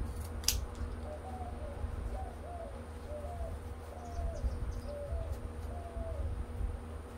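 A bird calling a string of short cooing notes, each rising then falling, over about five seconds. A single sharp scissors snip comes about half a second in.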